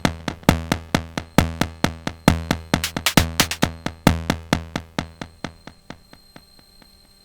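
Sonic Potions LXR-02 digital drum machine playing a techno pattern: a deep kick about every second under fast hi-hats and percussion. The kick drops out about four seconds in, and the rest fades away over the next two seconds, leaving only a faint hiss.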